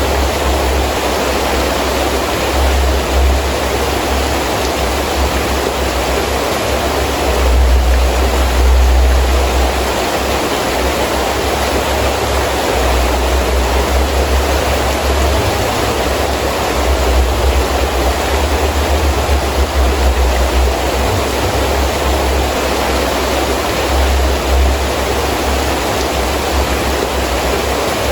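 Heavy rain falling steadily, with gusting wind that brings a low rumble swelling and fading every few seconds.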